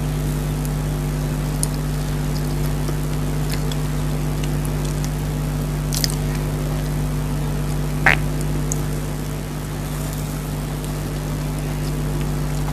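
Someone chewing soft chocolate cake with a few wet mouth clicks, over a steady background hum. A short, sharp sound about eight seconds in is the loudest moment.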